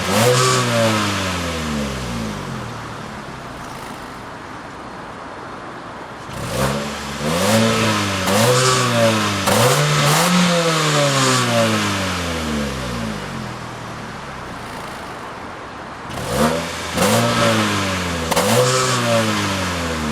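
2011 Kia Carens engine revved repeatedly from idle: short blips whose pitch climbs and falls back, in groups at the start, again from about six to twelve seconds in, and near the end, settling to a steady idle between.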